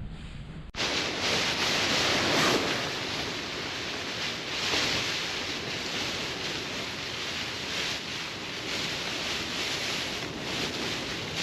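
Wind and rain lashing a Nortent Vern 2 tent: a steady rushing noise that swells in gusts every couple of seconds. It starts abruptly under a second in.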